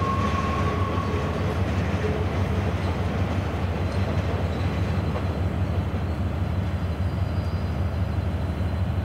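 A train running: a steady low rumble with a faint high whine coming in about halfway through.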